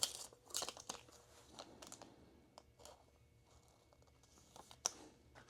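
Faint rustling and light clicks of trading cards and their plastic holders being handled and shuffled, with one sharper click near the end.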